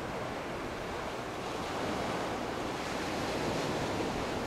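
Gentle Atlantic surf washing on the beach, a steady rush of calm waves, with a light breeze on the microphone.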